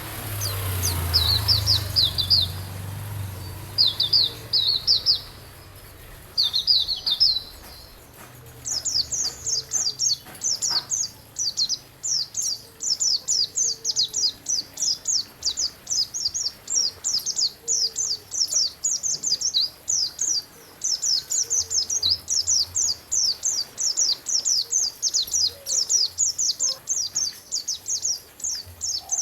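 A songbird singing high, quick chattering phrases: a few short bursts, then about eight seconds in a long unbroken run of rapid sharp notes. A low rumble sounds briefly in the first few seconds.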